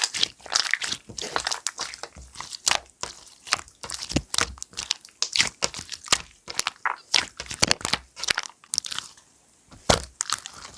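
Clear slime being worked by hand, giving a dense, irregular run of sharp clicks and pops, with a short pause about nine seconds in and then one loud pop.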